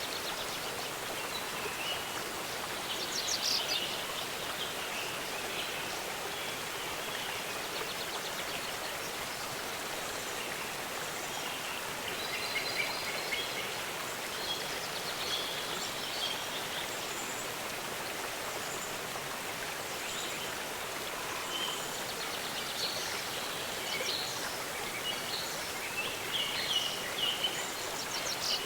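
Waterfall rushing steadily, with birds chirping over it in short scattered calls, busiest about three seconds in and through the second half.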